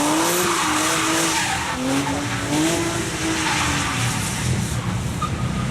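Car engine revving high, its pitch swinging up and down, over the steady hiss of spinning, skidding tyres, as in a burnout or drift. The engine note fades about four seconds in, leaving the tyre noise.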